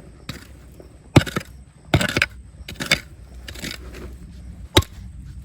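A digging tool striking rock and gravel in a riverbed: about five sharp hits, roughly one a second, over a low background rumble.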